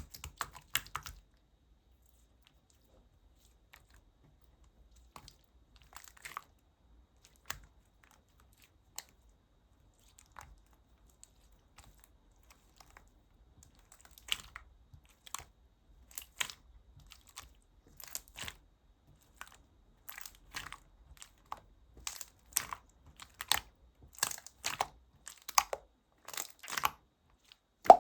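Jelly-textured slime being played with by hand, giving short crackling clicks and pops. They come only now and then at first, then thick and fast from about halfway through.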